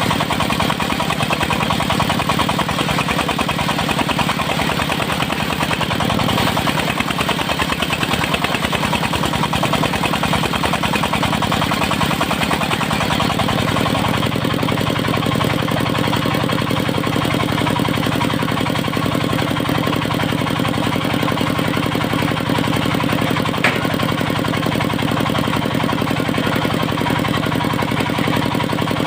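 Engine of a mobile circular sawmill running steadily, its note changing about halfway through, with a single brief click near the end.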